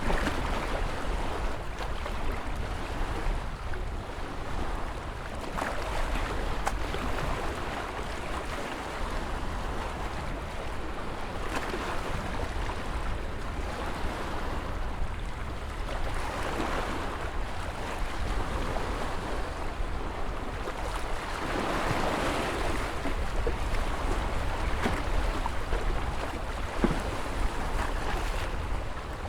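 Ocean waves breaking and washing in, a continuous surf wash that swells and ebbs every few seconds over a steady low rumble.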